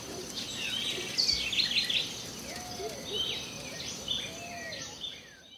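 Several birds chirping and calling in quick, overlapping phrases over a faint steady high tone, with the sound fading out near the end.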